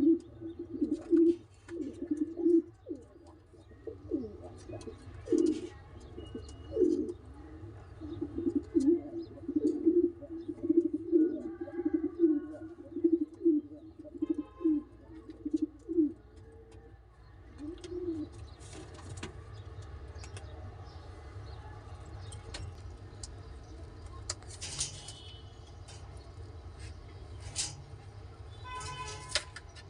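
Pigeons cooing, a run of repeated low coos that stops a little past halfway. After that come scattered sharp clicks and taps over a steady low hum.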